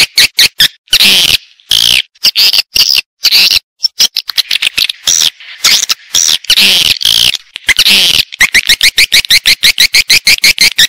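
Recorded swiftlet calls, a lure track for drawing swiftlets into a nesting house: fast runs of short sharp chirps, several a second, alternating with longer twittering chirrups.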